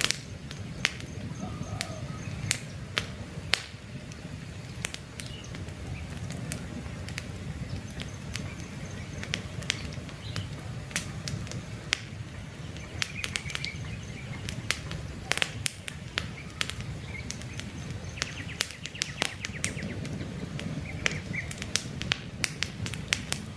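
Wood campfire crackling with irregular sharp pops over a steady low rumble of flames, with birds chirping faintly now and then.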